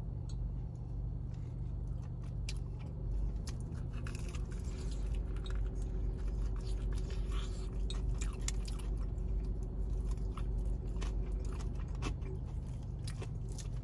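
Close-miked biting and chewing of a crispy fried chicken sandwich: many short crunches and wet mouth clicks over a steady low hum.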